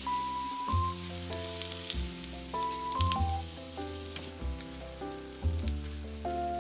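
Battered zucchini slices sizzling in hot oil in a cast-iron pan: a steady hiss with scattered small pops and crackles. Light background music with a bass line and melody plays throughout.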